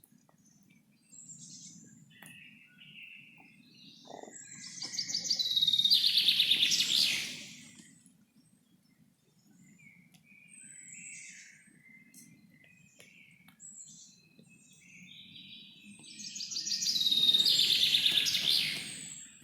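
Forest songbirds singing: two loud, rapid trilling song phrases of about three seconds each, roughly ten seconds apart, with fainter chirps from other birds in between. A faint low steady hum lies underneath.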